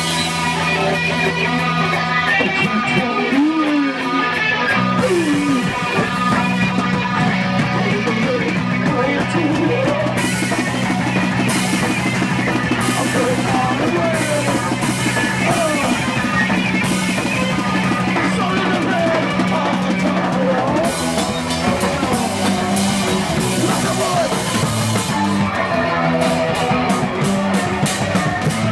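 A live rock band playing loudly: a drum kit beating hard under sustained electric guitar and bass notes.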